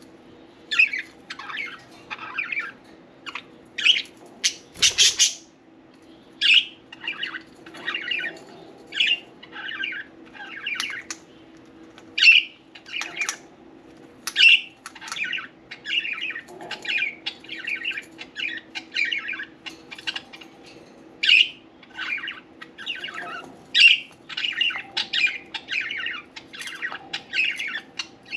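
Budgerigars chirping and chattering in rapid, irregular short calls, with a louder, fuller sound about five seconds in. A steady low hum runs underneath.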